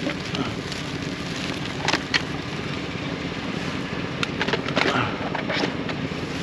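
Steady wind noise on the microphone, with several sharp clunks and rattles of junk being handled: two around two seconds in and a cluster a little later, near the end.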